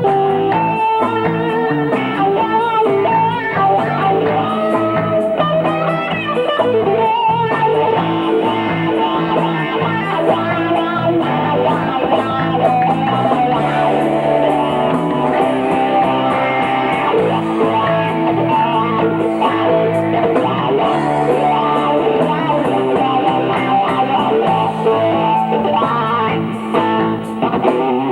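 Blues-rock song in an instrumental break without vocals: a guitar lead with bending notes over steady band backing.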